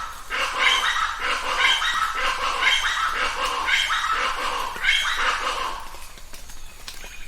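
A group of chachalacas calling loudly in a chorus of harsh, repeated, overlapping calls, easing off near the end.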